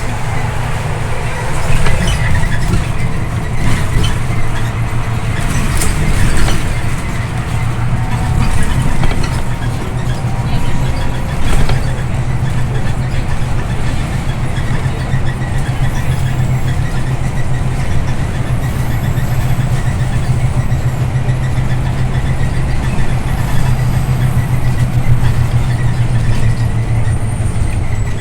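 Scania OmniLink I city bus under way, heard from inside the cabin: a steady low engine drone with road rumble. Sharp rattles and knocks come through over the first dozen seconds, and the drone grows stronger in the second half.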